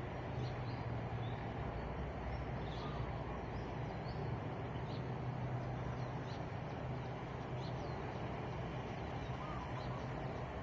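Birds chirping in short, scattered calls over the steady low hum of traffic.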